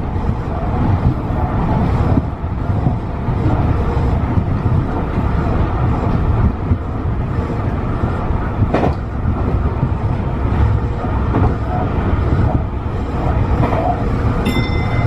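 Tobu 50090 series electric train running, heard inside the car as a steady low rumble of wheels and motors. There is one sharp click about nine seconds in, and a brief high tone near the end.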